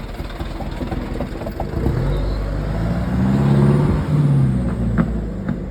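Loaded truck's diesel engine working hard, revving up from about two seconds in, its pitch rising and falling. A short sharp knock comes about five seconds in.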